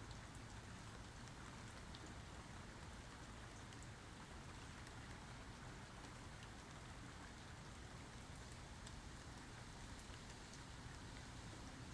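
Faint, steady rainfall, a continuous hiss with scattered individual drops ticking through it.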